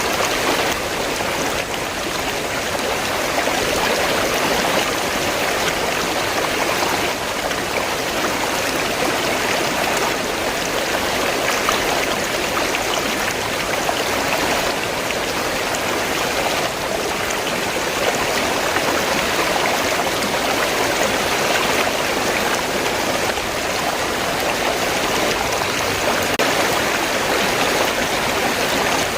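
River water flowing steadily, an even rushing noise that holds level throughout.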